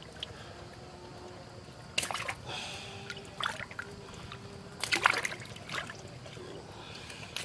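Water splashing and dripping in a few short splashes, the loudest about five seconds in, over a faint steady hum.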